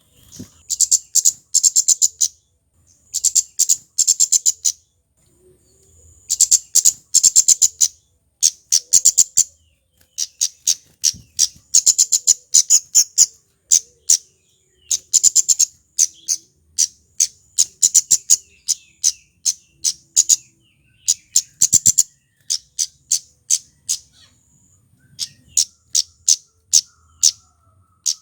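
Male flowerpecker (kemade) singing: rapid runs of sharp, very high ticking notes in clusters a second or two long, separated by short pauses.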